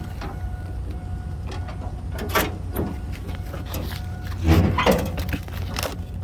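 A truck's diesel engine running steadily, a low rumble with a faint steady whine over it. There are a couple of brief louder noises about two and a half and five seconds in.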